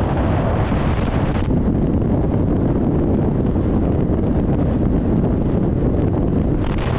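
Heavy wind noise buffeting the microphone of a riding motorcycle, a steady low rumble with the bike's running noise mixed in.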